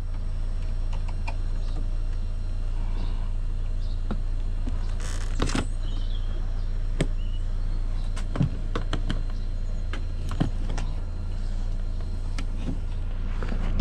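Scattered sharp clicks and snaps of plastic door trim being prised off a Saab 9-5 door, with a louder cluster about five seconds in and single clicks spread through the rest, over a steady low rumble.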